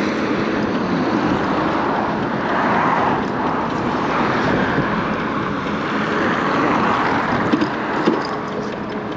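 Steady rushing wind and road noise of a MiniPro Mi716 electric scooter being ridden, with a couple of short knocks near the end; the rider says the battery, seated the wrong way, rattles a little.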